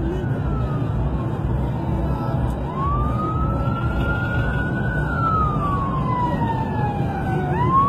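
Police siren wailing in a slow rise and fall, over a steady low rumble of engine and road noise.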